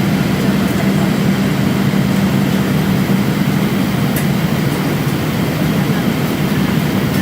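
Steady cabin noise inside an Airbus A320 on the ground: an even, loud rush of air with a constant low hum underneath.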